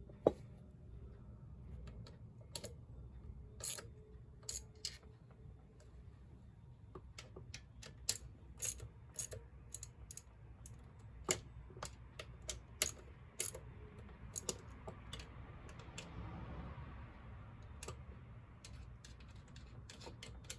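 Irregular light clicks and taps of hand tools and small metal parts being handled during scooter clutch work, over a steady low hum.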